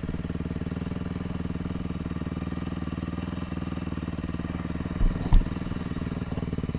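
A motor vehicle engine running steadily at an even, low speed, with two short low thumps about five seconds in.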